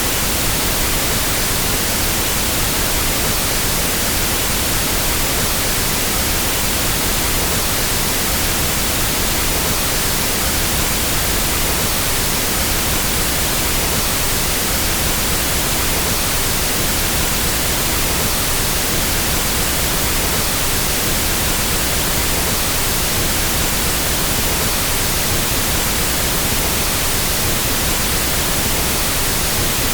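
Pink noise test signal used to equalize sound systems: a steady, even hiss across the whole range of pitch, without change.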